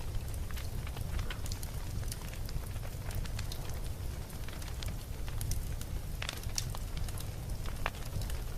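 Wood campfire burning, with frequent small crackles and sharp pops over a steady low rumble of flame. A couple of louder pops come in the second half.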